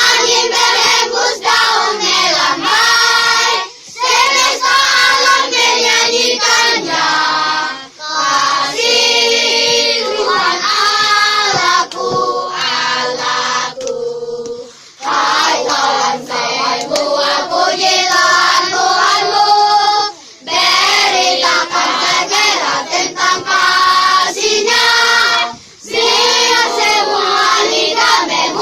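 Choir singing a sacred song in Indonesian in rehearsal, phrase after phrase, with short breaks for breath about every four to six seconds.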